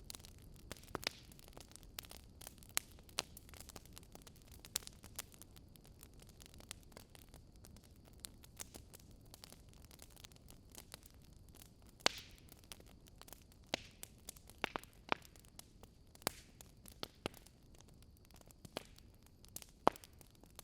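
Burning wood logs crackling, with irregular sharp pops over a soft low rushing hiss; the loudest pops come about twelve seconds in and near the end.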